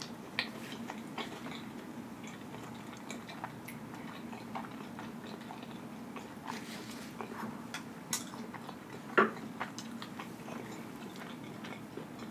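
A person chewing a mouthful of soft, cheesy meatballs close to the microphone: scattered soft, wet mouth clicks and smacks, with one louder click about nine seconds in.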